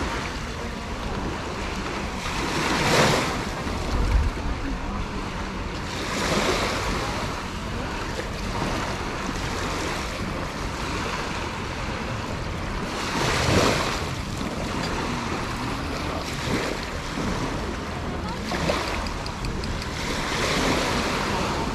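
Sea waves washing onto the beach, surging every few seconds, with wind buffeting the microphone.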